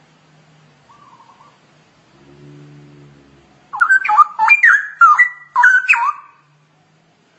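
Straw-headed bulbul (cucak rowo) singing: one loud burst of rich, quickly gliding whistled warbles starting about halfway in and lasting about two and a half seconds. A fainter low hooting hum comes shortly before it.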